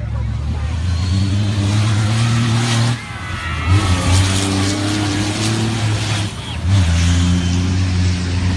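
A rally vehicle's engine running hard and loud. Its note dips briefly about three seconds in and again past six seconds, then picks back up.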